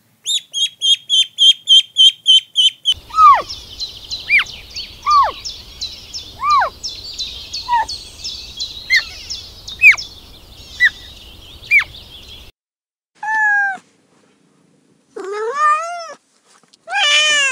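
Ducklings peeping in a quick, regular series. Then birds chirping densely, with a louder call that falls in pitch repeated about once a second. Near the end, a domestic cat meows three times.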